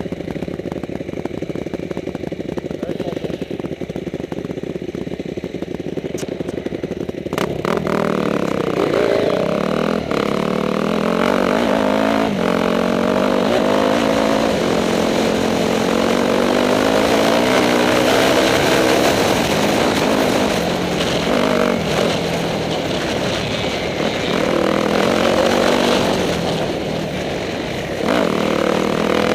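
Motorcycle engine running steadily, then from about seven seconds in getting louder and revving, its pitch rising and falling repeatedly as the bike rides off and changes speed.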